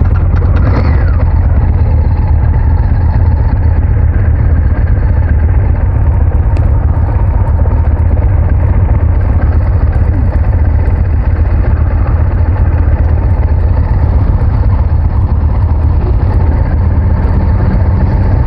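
Honda VTR1000F's V-twin engine running with a loud, steady low drone that holds without a break.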